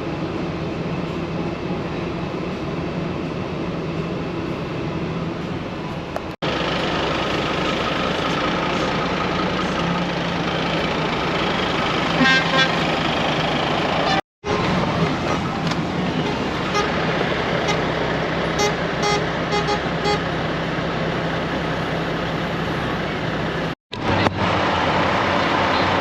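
Heavy diesel trucks running as they move off, with air horns tooting in short repeated blasts twice, once near the middle and again a few seconds later. The sound drops out briefly three times where the clips are cut.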